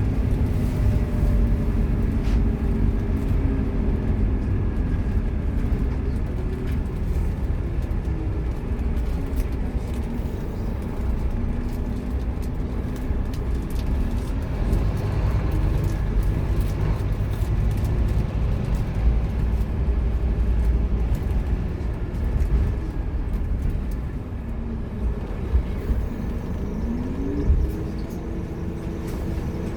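Scania K230UB Omnilink bus's five-cylinder diesel engine running under way, its pitch falling and rising with the automatic gearbox's gear changes and climbing sharply near the end.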